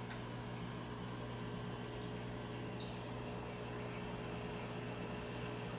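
Aquarium equipment running: a steady electric hum with a soft, even hiss.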